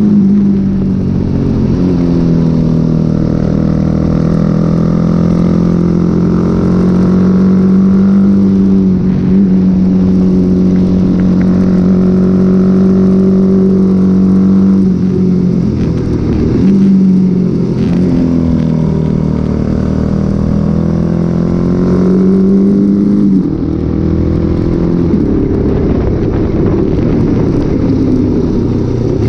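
Honda XL motorcycle engine running hard at high revs, the pitch held steady for long stretches, dropping sharply about halfway through and again near the end before climbing back up.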